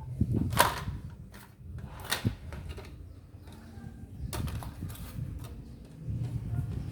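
A few sharp clicks and knocks: small plastic fan parts and wiring being handled, the loudest about half a second and two seconds in, more near the end.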